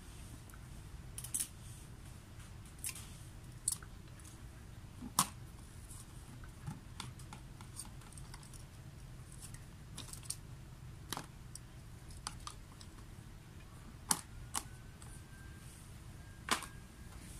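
Swedish torch log fire crackling: sparse, irregular sharp snaps of burning wood over a low steady hum, with a faint thin whistle near the end.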